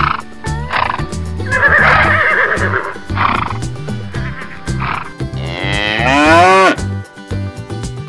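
Recorded cattle mooing, several calls with the longest and loudest about six seconds in, over background music with a repeating bass line.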